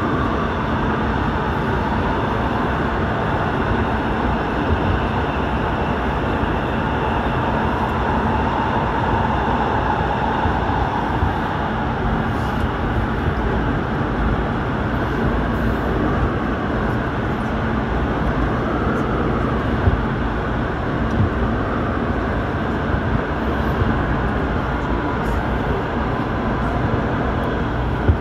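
Airport Railroad (AREX) all-stop commuter train running steadily, heard on board: a continuous rumble of wheels on rail and running noise.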